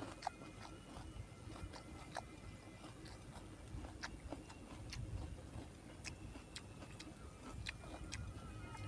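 A person chewing and eating grilled tilapia, with soft irregular mouth clicks and smacks.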